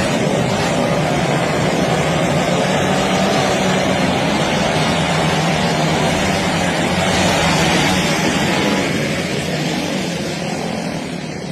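Several motocross bikes running together, their engines rising and falling in pitch as they rev, then fading about nine seconds in.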